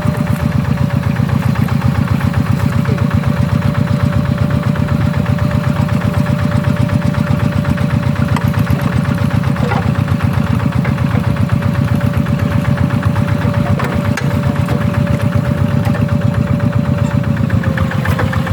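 Single-cylinder diesel engine of a G1000 two-wheel hand tractor running steadily in a rice paddy, with a fast, even chugging beat. A steady whine runs over it and dips slightly in pitch near the end.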